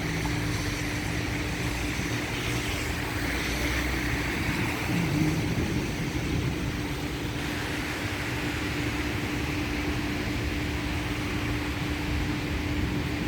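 Heavy rain falling steadily, a continuous hiss, with a steady low hum underneath.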